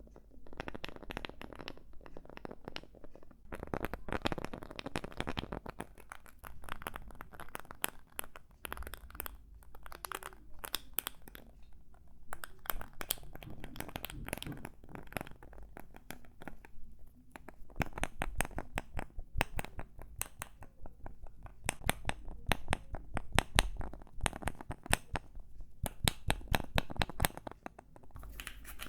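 Nuts being handled, giving a fast, uneven run of sharp clicks and rattles with some scratching, thickest in the second half.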